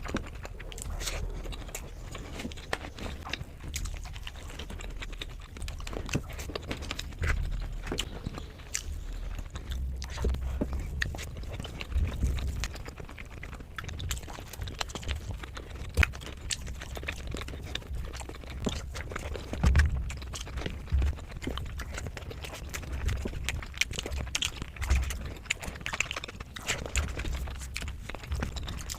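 Close-miked chewing and mouth sounds of someone eating spicy fish curry: a steady run of irregular smacks and clicks with soft low thumps.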